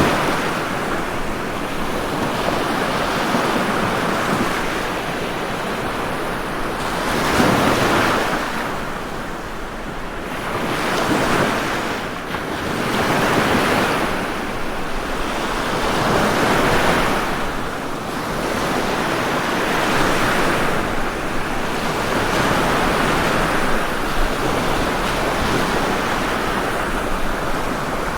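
Ocean waves breaking and washing on a shore, a continuous surf that swells and eases every few seconds.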